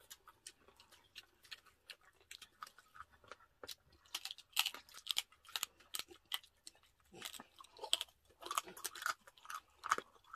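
Close-miked chewing of crispy roast pig's head (lechon ulo): a quick, uneven run of small crunching clicks and crackles, busiest in the second half.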